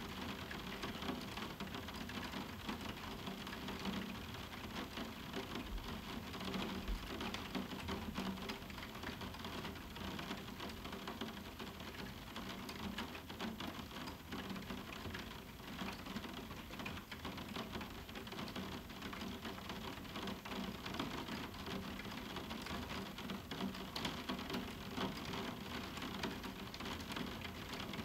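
Moderate summer rain falling steadily on a roof window, a dense, even stream of small drop hits on the glass, with no thunder.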